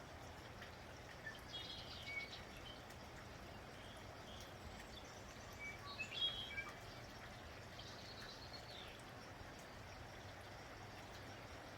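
Steady light rain with small birds chirping: short clusters of high chirps about two seconds in, around six seconds in (the loudest), and again near eight to nine seconds.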